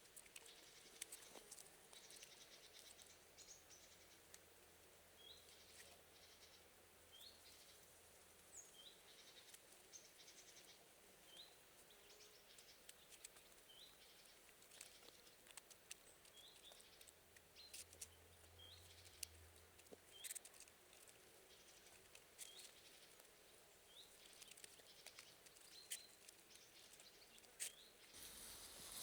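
Quiet forest ambience: a small bird repeats a short, high, rising chirp every second or two, with faint scattered clicks and taps.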